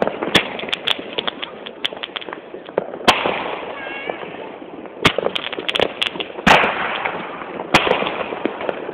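Fireworks going off: a string of sharp bangs with crackling between them, the loudest reports about 3, 5, 6½ and 8 seconds in.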